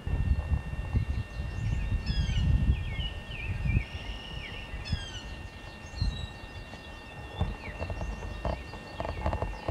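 Birds singing outdoors in short chirping phrases with quick downward sweeps, mostly in the first half, over a low rumbling noise on the microphone that swells and fades, loudest in the first few seconds.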